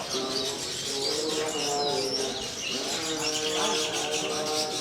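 Long-tailed shrikes (cendet) singing: many quick high chirps and trills overlapping, over steady lower held tones.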